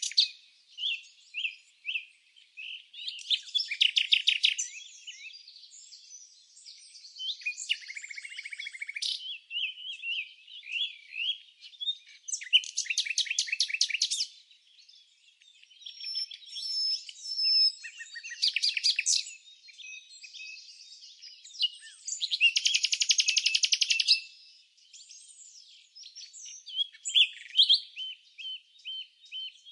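Small songbirds chirping, with several rapid trills lasting a second or two each (about three seconds in, near the middle, and about two-thirds through) and scattered short, quick chirps in between.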